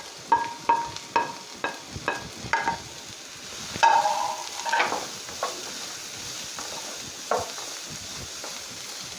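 Onions and other filling sizzling as they sauté in coconut oil in a pan, stirred with a utensil that strikes the pan. Each stroke rings briefly, about two or three a second at first, then only now and then.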